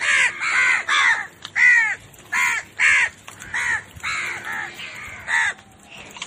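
Bird calling over and over in short, harsh calls, about two a second, with brief pauses between runs.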